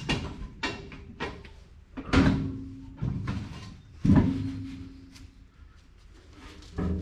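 Metal knocks and clunks as a car-type battery is worked into a tractor's battery box, the two loudest about two and four seconds in, each with a brief metallic ring.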